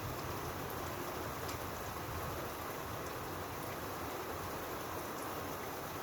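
Steady rain falling, a constant hiss with scattered individual drops ticking through it.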